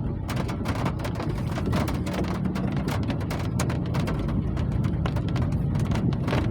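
Steady rain falling hard, with many separate drop hits clicking irregularly over a deep low rumble.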